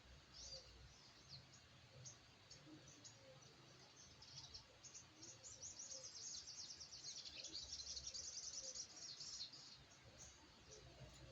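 Crimson sunbird (sogok ontong) chirping faintly in short high notes, breaking into a fast, dense trill about halfway through.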